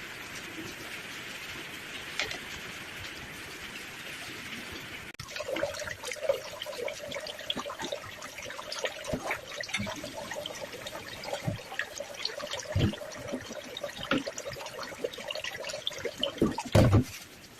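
Steady rain falling. About five seconds in it gives way to splashing water and many small knocks over a steady hum, with a heavy thump near the end.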